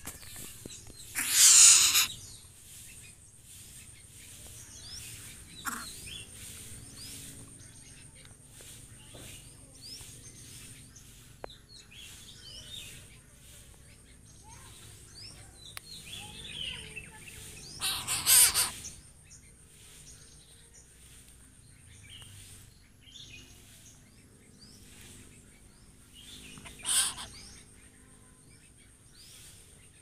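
Wild birds chirping in the background, with three louder harsh, rasping bursts: about a second in, midway, and near the end.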